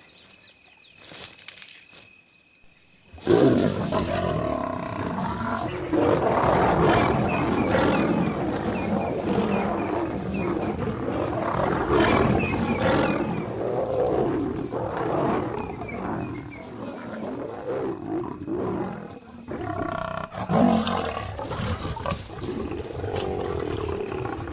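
Lions snarling and roaring in a fight, a male lion clashing with lionesses defending their cubs. The fight breaks out suddenly about three seconds in over a steady chirping of insects and goes on with repeated louder roars.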